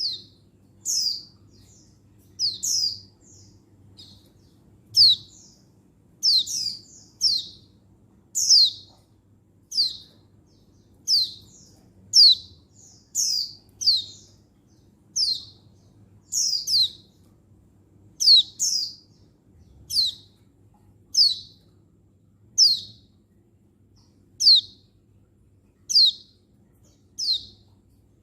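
Female white-eye ('pleci buxtoni') giving its call to a male: short, high chirps that drop in pitch, repeated about once a second, some in quick pairs.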